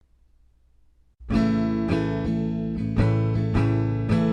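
Acoustic guitar strumming the chords of a folk song's intro, starting suddenly about a second in after near silence, with a sharp strum every half second or so.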